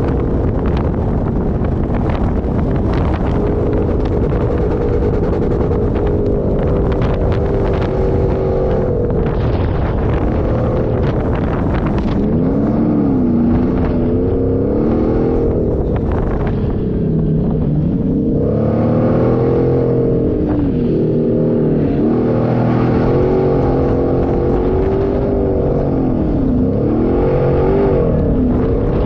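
Off-road 4x4 engine revving up and down again and again as it drives over sand, over a constant rushing noise with scattered knocks.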